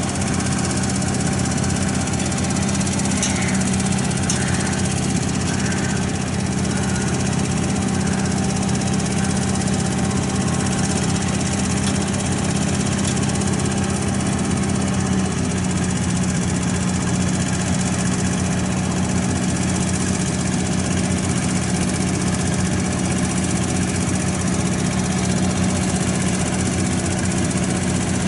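Engine of a 1997 Ford utility boom truck idling steadily; the idle speed steps up slightly about halfway through.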